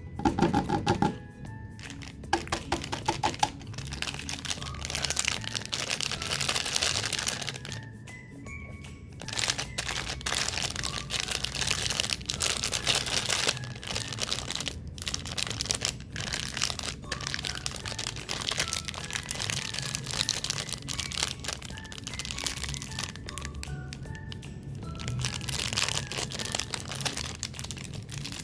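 Plastic snack packaging crinkling, crackling and tearing as packaged cakes and cookies are unwrapped, over background music. A short chime-like note sounds right at the start.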